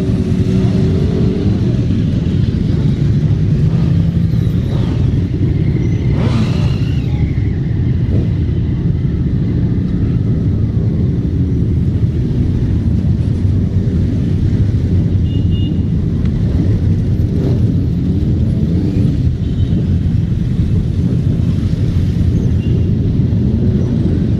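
Motorcycle engines running together in a steady low rumble.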